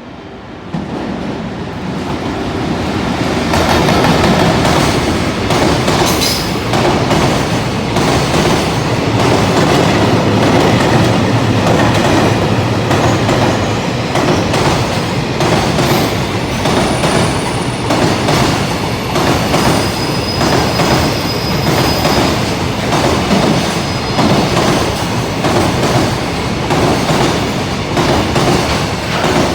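A freight train hauled by an EF81 AC/DC electric locomotive running past, its wheels clattering over rail joints in a steady rhythm, with a few brief high wheel squeals. The noise swells about a second in and stays loud throughout.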